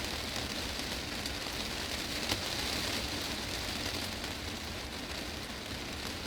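Heavy rain falling on a glass greenhouse roof: a steady hiss of many drops hitting the glass, with one sharper drop tap about two seconds in.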